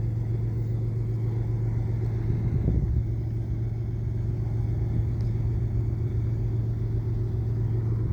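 Steady low engine rumble with a constant deep hum, swelling slightly a few seconds in.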